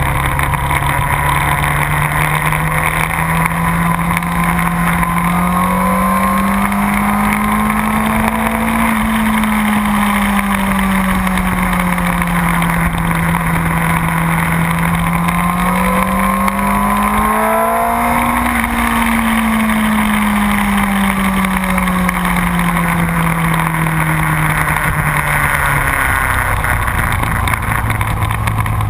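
Motorcycle engine heard from an onboard camera while riding on a racetrack, its pitch rising and falling slowly twice as the rider speeds up and eases off. The pitch drops sharply near the end. Heavy wind rush on the microphone runs under the engine throughout.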